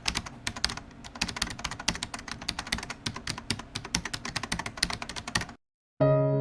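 Rapid, irregular keystrokes on a computer keyboard for about five and a half seconds, stopping abruptly. Soft electric piano music begins just before the end.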